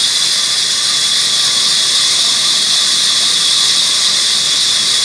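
Sawmill saw cutting through wood: a loud, steady high-pitched squeal that holds without a break.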